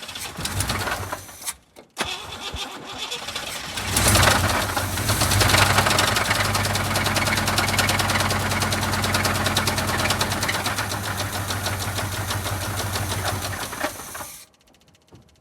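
Blown car engine with a rod knock being started: it cranks briefly, stops, cranks again and catches about four seconds in. It then runs for about ten seconds with a fast knocking before shutting off.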